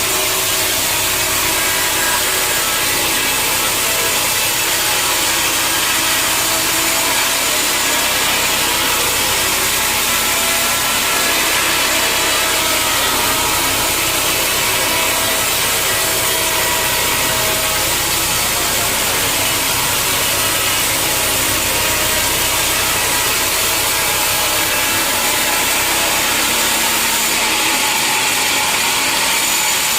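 Sawmill saw running steadily through a log, a continuous cutting noise with a faint whine of steady tones over it.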